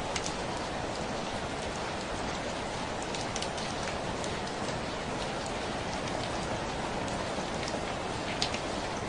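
Steady rainfall, a constant hiss with scattered individual drops ticking on a hard surface.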